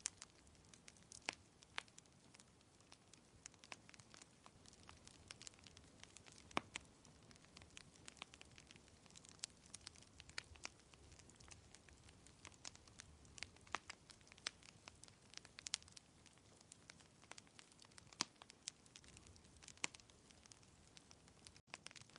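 Wood fire crackling softly in a fireplace: irregular sharp pops and snaps, a few a second, over a faint steady hiss.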